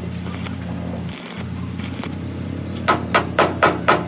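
Hammer blows on steel, a quick run of ringing strikes about four a second starting near the end, over a steady low hum.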